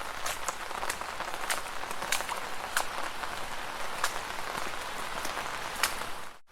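Footsteps splashing through shallow puddles at a steady walking pace, a sharp splash about every two-thirds of a second over a continuous wet crackle of water. The sound cuts out abruptly near the end.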